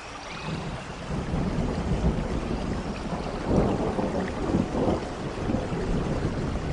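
Steady rainfall with a low rumble of thunder that builds about half a second in and is loudest around the middle.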